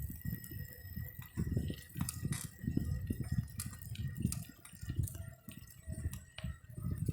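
Wind buffeting the microphone of a rider on a moving bicycle, a gusting low rumble, with scattered small clicks and rattles.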